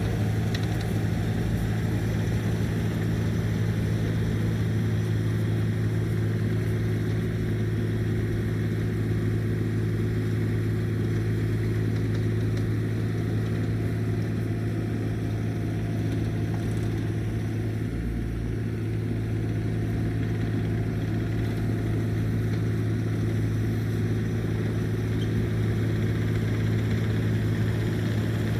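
Heavy land-clearing machine's engine running steadily at a constant pitch, with no clear revving or pauses.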